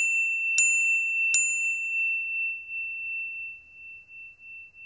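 A bell-like chime struck three times in quick succession, each strike on the same clear pitch. The tone rings on after the last strike and fades away slowly.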